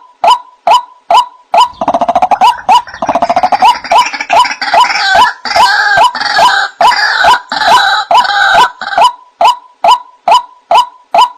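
White-breasted waterhen (ruak-ruak) calling, from a bird-trap lure recording. It gives a steady series of short 'kwak' notes, about two and a half a second. About two seconds in these break into a louder, harsher run of croaking and gurgling calls that climbs higher in pitch, and the even 'kwak' series returns near the end.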